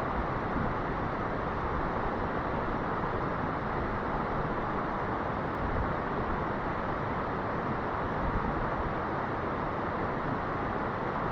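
Steady rushing of a fast mountain creek, an even hiss of running water that holds at one level throughout.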